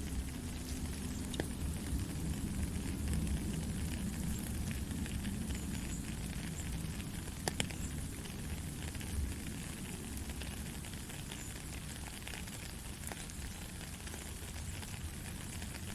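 Gentle rain falling steadily as a dense hiss, with a few sharper drop ticks now and then, the clearest about seven and a half seconds in.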